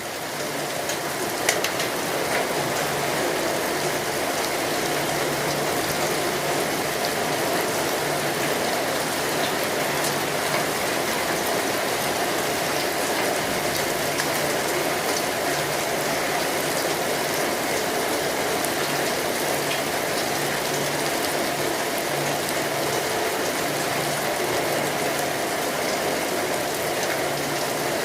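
Steady rainfall, a dense even hiss with many individual drops tapping, swelling up over the first second or two and then holding steady.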